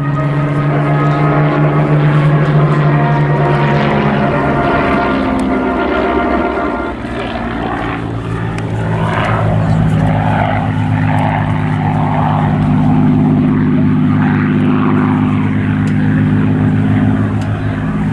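Supermarine Spitfires' piston engines running in flight, a steady drone whose pitch shifts around four to seven seconds in. The level dips briefly at about seven seconds, then the drone picks up again.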